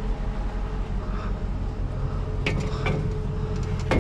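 A vehicle engine idling steadily, with two sharp knocks about two and a half and three seconds in.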